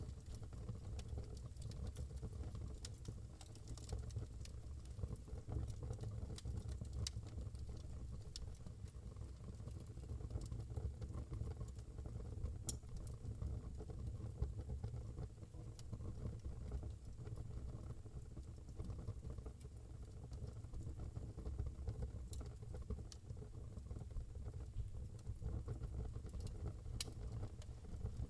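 Wood fire burning in a fireplace: a steady low rumble of the flames with sparse sharp crackles and pops from the firewood.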